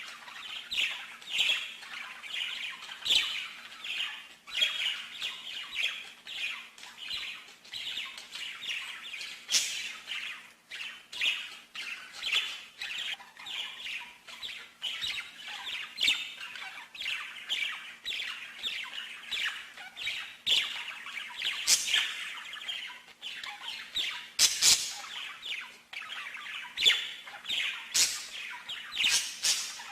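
Small birds chirping and chattering continuously, broken by frequent sharp squawks.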